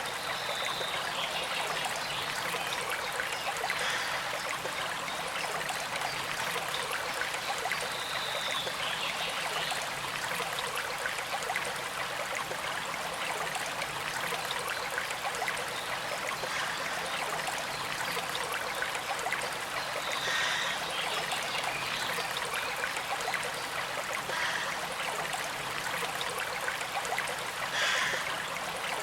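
Small stream flowing steadily, a gentle trickle of water over stones, with a few brief louder spots now and then, the clearest near the end.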